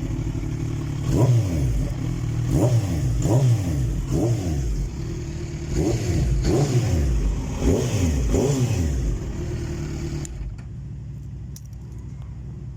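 Kawasaki Z1000SX's inline four-cylinder engine idling and being revved in about eight quick throttle blips, each rising sharply in pitch and falling back. It settles to a steadier idle near the end.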